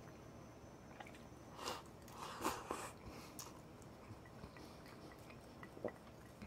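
Faint chewing of crunchy deep-fried insect kakiage, with a cluster of crisp crunches about two to three seconds in, the loudest there, and another crunch near the end.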